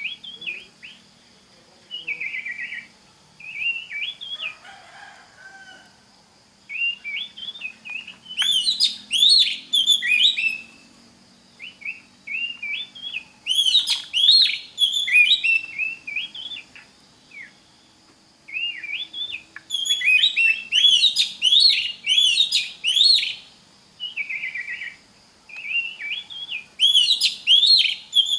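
Oriental magpie-robin (kacer) singing: phrases of rapid, varied whistled notes and sweeping trills, each lasting a few seconds, with brief pauses between them.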